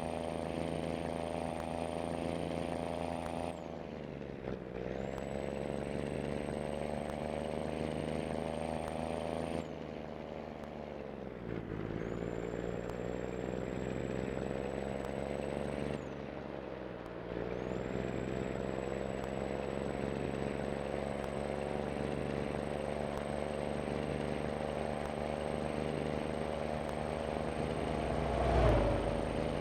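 Scania truck's diesel engine accelerating through the gears: three gear changes, each a short drop in the engine note that then climbs steadily again, with a high thin whine that cuts out at every shift. A low thump near the end is the loudest moment.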